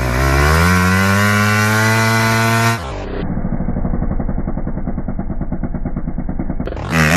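New KTM dirt bike engine warming up: it revs up and then holds a steady high rev. About three seconds in, the sound cuts to a duller, muffled recording of the engine running with rapid, even firing pulses.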